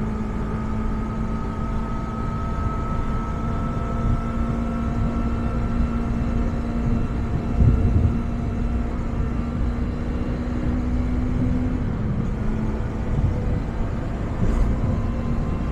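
Yamaha MT-25's parallel-twin engine with its stock muffler running at a steady pace while riding, under low wind rumble; the engine note drops slightly late on.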